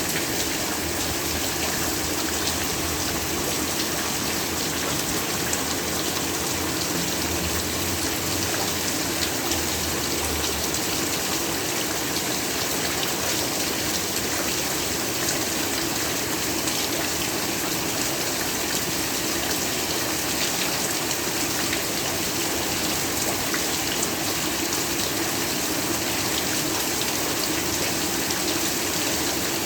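Heavy rain falling steadily, an even hiss with scattered drop patter, with a low rumble underneath for roughly the first ten seconds.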